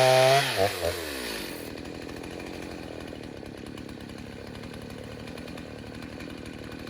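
Freshly rebuilt Stihl 029 two-stroke chainsaw coming off full throttle at the end of a cut: the revs fall away sharply, with a couple of short blips, and it settles into a steady idle.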